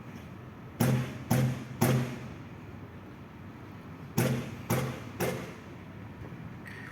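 Three sharp thumps about half a second apart, a pause of about two seconds, then three more thumps at the same spacing, each ringing briefly.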